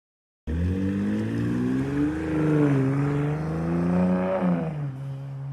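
2025 Ram 1500's 3.0-litre twin-turbo Hurricane inline-six sounding through a Flowmaster Outlaw cat-back exhaust, revved up and down twice, then dropping back to a steadier, quieter note near the end.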